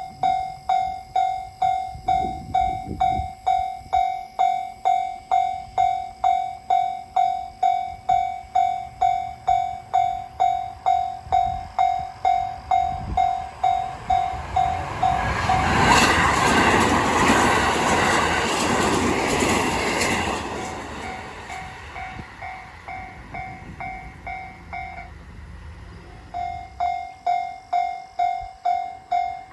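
Electronic level-crossing warning bell ringing in steady, quick strokes while a train passes, the train's rush loudest for about four seconds midway. The bell grows fainter after the train goes by, stops briefly near the end, then starts ringing again.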